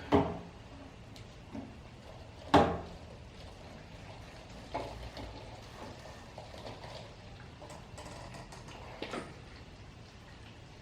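A few sharp clunks and knocks of tools and parts being handled during the repair work. The loudest comes about two and a half seconds in, with quieter ones around five and nine seconds.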